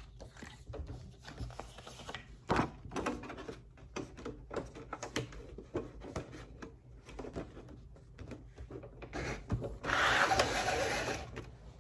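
Manual business card cutter working through 80-pound cover cardstock: scattered clicks and knocks with paper rubbing, then a louder scraping cut lasting over a second near the end.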